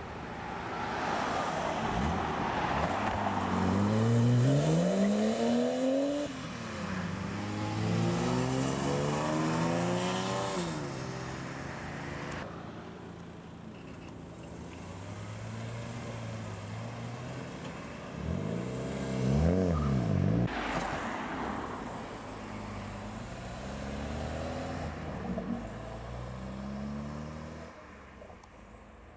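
A succession of BMW cars driving off one after another, each engine rising in pitch as it accelerates away. About twenty seconds in, one engine revs sharply up and back down.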